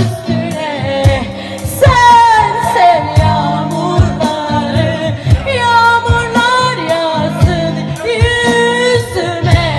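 Female voices singing a Turkish rock song live over a band, with steady drum beats and sustained bass and guitar underneath.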